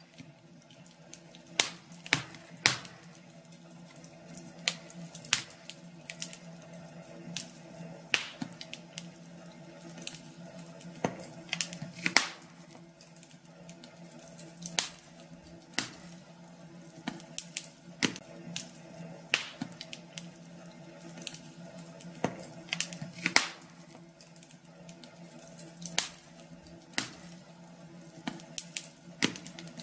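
Fireplace fire crackling: irregular sharp pops and snaps, sometimes several in quick succession, over a faint steady hum.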